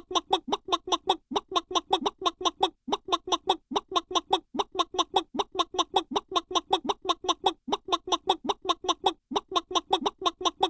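Chicken clucking sound effect: rapid short clucks, about six or seven a second, in runs broken by brief pauses every second or two.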